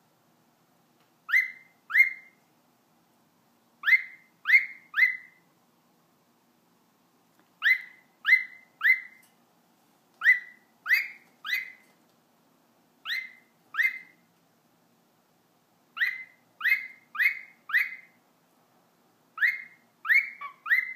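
Cockatiel singing: short whistled notes, each rising quickly in pitch. They come in runs of two to four about half a second apart, with pauses of one to two seconds between runs.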